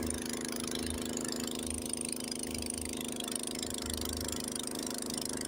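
Honda snowblower engine running steadily at a constant speed.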